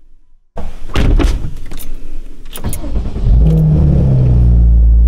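Porsche 981 Cayman S's 3.4-litre flat-six starting up: about two seconds of cranking with some sharp clicks, then it fires, flares up in revs and settles into a steady idle.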